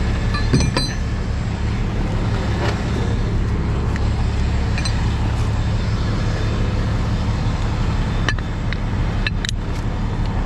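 Heavy rotator tow truck's diesel engine running steadily, with a few light metallic clinks from the lifting rigging now and then.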